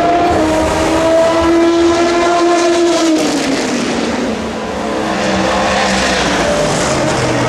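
Racing car engines running at high revs on a circuit. The engine pitch falls about three seconds in, then climbs again.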